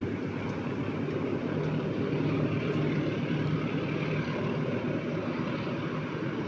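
Passenger train running: a steady low rumble from the diesel locomotive and rolling carriages, with a faint steady engine tone and a few light clicks.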